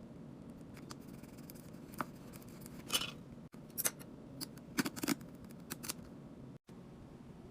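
Items and packaging being handled while restocking a fridge: a scatter of short clicks and crisp rustles over a steady low hum.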